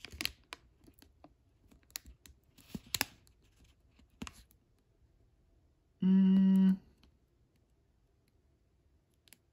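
Light clicks and taps of trading cards and their packaging being handled. About six seconds in comes a short, loud, steady buzz at one pitch, lasting under a second.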